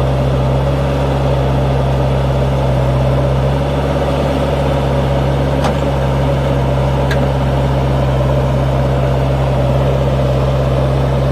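Force Sanman 6000 tractor's three-cylinder diesel engine running steadily at an even pitch, with two faint clicks in the middle.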